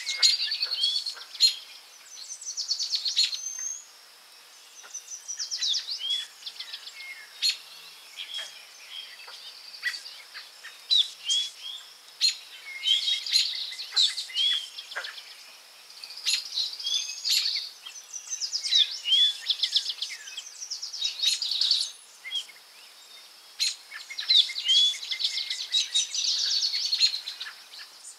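Forest birdsong: songbirds sing repeated phrases of quick trills and short down-slurred whistles, a new phrase every few seconds, with other chirps between them.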